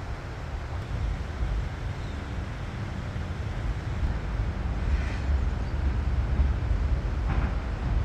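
Low, gusty rumble of wind buffeting the microphone outdoors, with two faint short sounds about five and seven seconds in.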